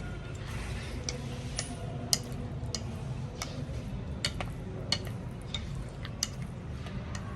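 Fish frying in hot oil: irregular sharp pops and crackles, about two a second, over a steady low rumble.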